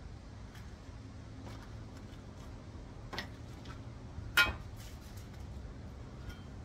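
Metal parts clinking as they are handled: a few light ticks and taps, a small knock about three seconds in, and one sharp ringing clink a little over four seconds in, over a low steady hum.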